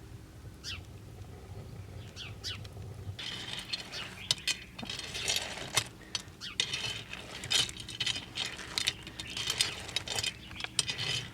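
Dishes, glasses and cutlery clinking and clattering, many sharp knocks in an irregular run starting about three seconds in. A few short bird chirps come before it.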